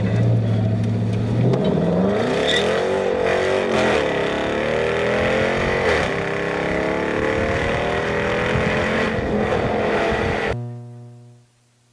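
A car engine holds a steady drone, then revs hard for several seconds, its pitch rising and swinging up and down. The sound fades away near the end.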